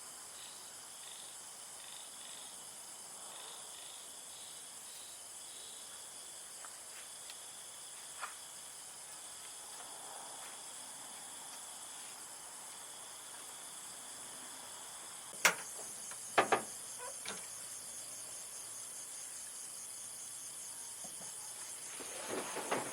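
Steady high-pitched chirring of crickets or similar insects. A few sharp clicks or knocks come about two-thirds of the way through, and a short burst of knocking comes near the end.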